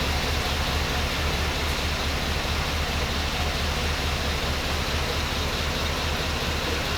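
Chevrolet 4500 low cab forward truck's gas engine running steadily with a low rumble.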